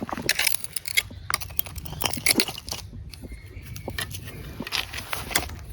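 Irregular clicks and crackling rustles from hands searching through forest-floor debris for snails.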